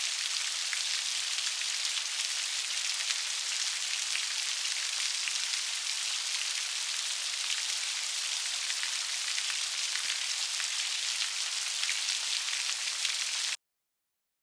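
Steady rain falling: an even, dense hiss with scattered sharp drop ticks. It cuts off abruptly near the end.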